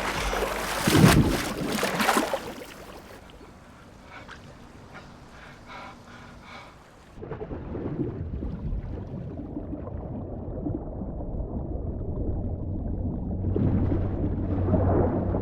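Water splashing and churning hard for the first couple of seconds, then a muffled, dull low rumble that slowly swells, as if heard from under the water.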